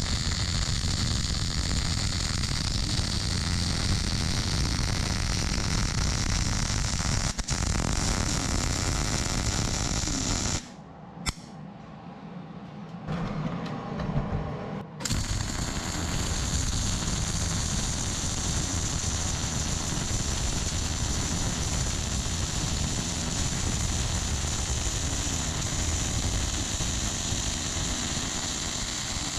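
MIG welding arc crackling steadily as a root pass is laid on the steel cutting-edge supports, with the torch pushed along the joint. The arc stops for about four seconds partway through, with a single click in the gap, then strikes again and runs on.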